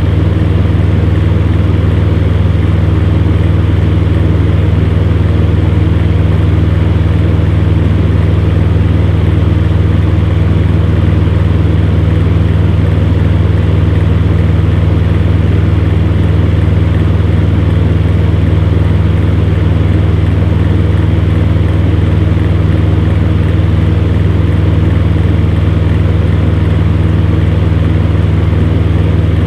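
Electric fan heater running steadily: a constant low motor hum under the even rush of air from its fan.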